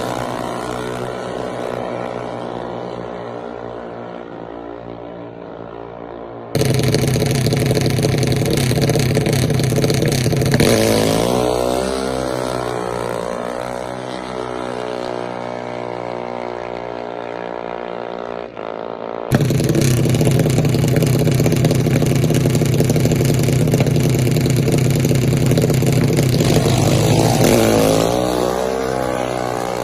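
Race car engine running hard at high revs, its pitch dropping and climbing again with lifts off the throttle and gear changes. The sound jumps abruptly louder at about six seconds and again about nineteen seconds in.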